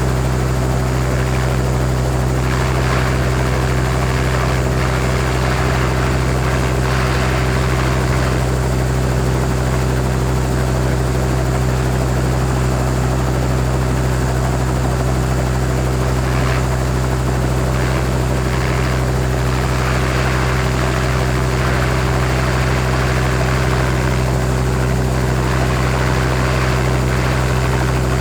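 Helicopter idling on the ground: a steady engine and rotor drone with fixed low tones and a constant rushing hiss above them.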